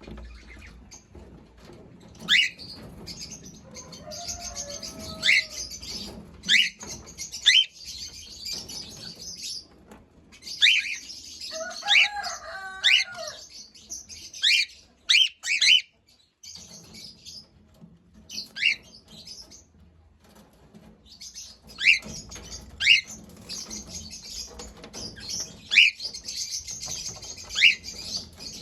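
Birds chirping: many short, sharp chirps that sweep down in pitch, scattered irregularly over a steady high twittering. Twice, a lower call rises out of it.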